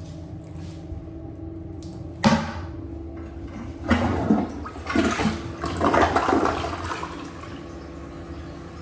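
Toilet flushing: a sudden whoosh a little after two seconds in, then water rushing in several surges for about three seconds before fading out.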